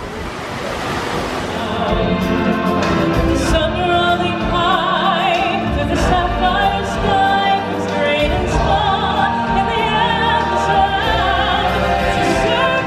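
Music with singing voices and vibrato, in a choral, operatic style. It begins about two seconds in, after a short stretch of outdoor background noise.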